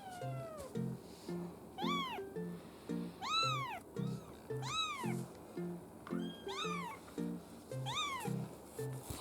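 Kitten meowing repeatedly: short, high-pitched calls that each rise and then fall in pitch, coming every second or two. Background music with a plodding, steady beat plays underneath.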